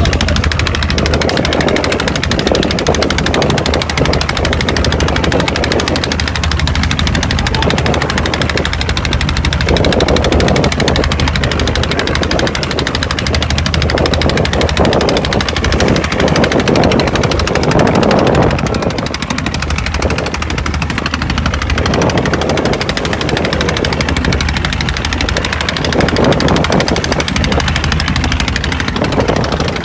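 Boat engine running steadily under way: a rapid, even knocking over a low hum, with a constant rushing noise.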